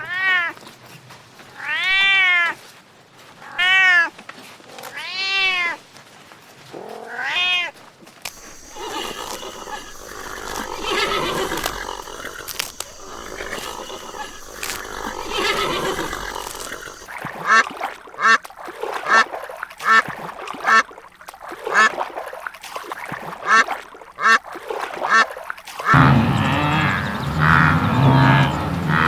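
A cat meowing: four drawn-out meows, each rising then falling in pitch. After them comes a stretch of mixed, noisier animal sounds, then a run of short repeated calls about two a second.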